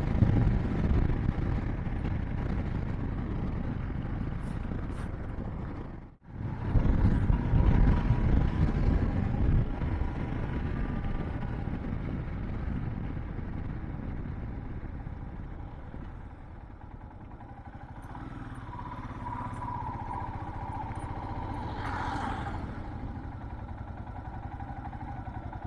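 Motorcycle riding on a mountain road: steady engine rumble mixed with wind and road noise, with a brief cut-out about six seconds in.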